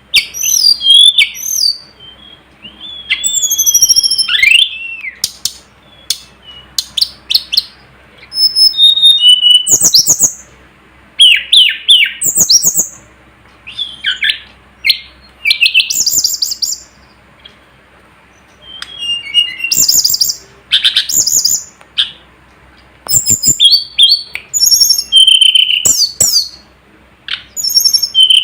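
Tledekan gunung (sulingan gunung) songbird singing a loud, varied song of sharp chirps, rapid trills and whistled pitch glides in short phrases, with a longer pause about two-thirds of the way through.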